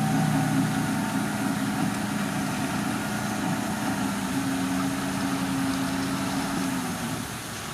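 Heavy diesel engine of earthmoving machinery running with a steady hum, its note shifting slightly partway through. It eases off and gets quieter near the end.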